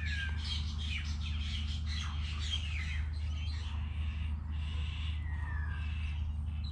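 Several birds calling, a busy run of short chirps and quick falling whistles, over a steady low hum.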